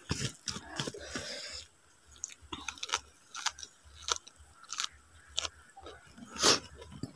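Close-up wet chewing and lip-smacking of a mouthful of rice and raw papaya leaves eaten by hand, a string of short smacks with one louder near the end. Near the start, a rustle as the handful of food is gathered and squeezed in the fingers.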